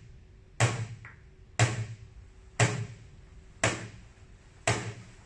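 A bucket struck with chopsticks as a stand-in for a taiko drum: five low thuds in a steady beat, about one a second.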